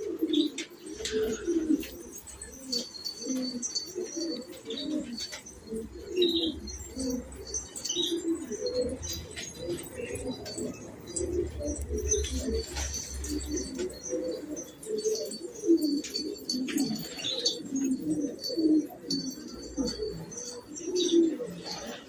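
Many domestic pigeons cooing continuously and overlapping, with small birds chirping in short, repeated high notes above them.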